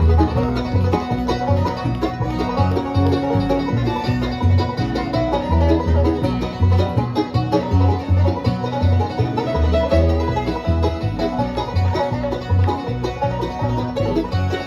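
Bluegrass band playing, banjo to the fore with guitar, over a steady alternating bass beat.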